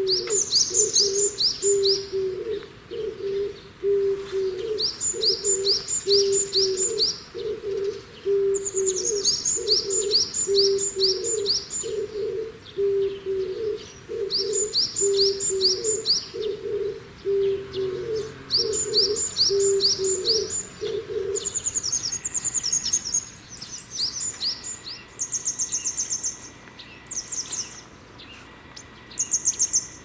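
Wild birds calling together. One repeats a low hooting note about one and a half times a second and stops a little after two-thirds of the way through. Another gives bursts of five or six high, quickly falling notes every few seconds, coming faster near the end.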